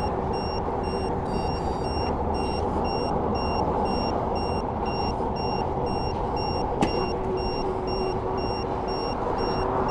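Pedestrian crossing signal beeping rapidly and steadily, with a brief burst of chirps about a second in, over steady traffic noise.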